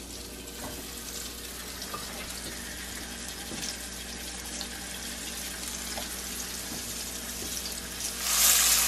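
Floured quail pieces sizzling in hot lard in a cast-iron skillet: a steady frying hiss that grows much louder near the end.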